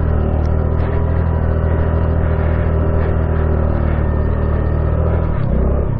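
Honda Navi's small single-cylinder engine running at a steady speed, its tone changing about five and a half seconds in.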